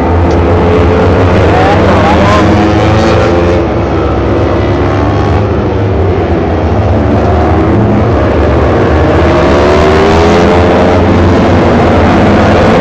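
Several Kawasaki Ninja 250 four-stroke racing motorcycles on the track, their engines rising and falling in pitch as the riders rev and shift around the bends, over a steady low rumble.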